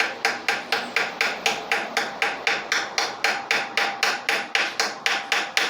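Rapid, evenly paced hammer blows, about four a second, each strike leaving a short ringing tone; the hammering stops abruptly at the end.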